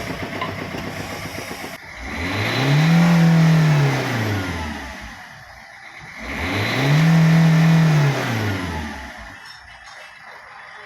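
Ford Figo engine idling, then revved twice, each rev climbing and falling back over about three seconds, before settling to a quieter idle. It revs freely with the faulty third-cylinder injector replaced.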